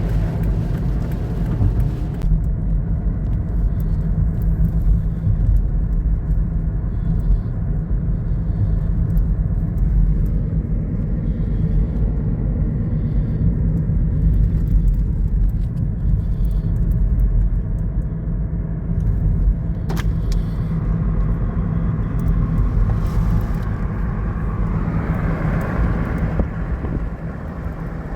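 Steady low rumble and hum of a car idling in stopped traffic, heard from inside the cabin, with one brief click about twenty seconds in.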